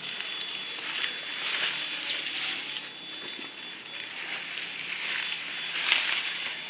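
Rustling and crackling in dry leaves and undergrowth, uneven throughout, with one sharper click about six seconds in.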